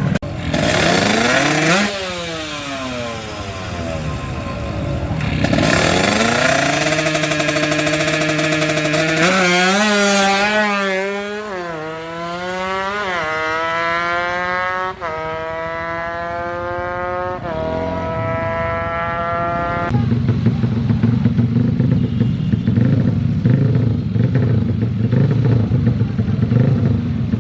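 DOHC drag-racing motorcycle engine revving, then accelerating hard through several gears, its pitch climbing and dropping sharply at each upshift. About two-thirds of the way in this gives way to a rough, steady low rumble.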